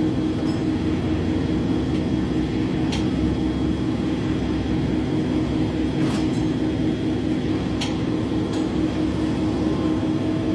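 A steady mechanical drone with a constant low hum, with a few short sharp clicks about 3, 6, 8 and 8.5 seconds in.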